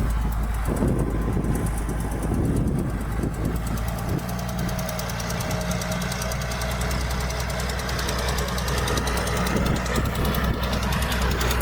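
Diesel engine of heavy earthmoving machinery running steadily under a fast, even clatter.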